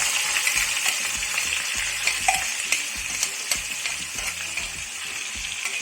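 Chopped onion and curry leaves sizzling in hot vegetable oil in a kadai, the sizzle slowly dying down. A utensil stirring in the pan adds a few sharp clicks partway through.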